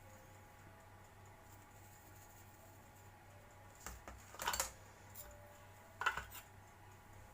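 Light clicks and knocks of kitchen utensils being handled, in two brief clusters about four and six seconds in, over a faint steady hum.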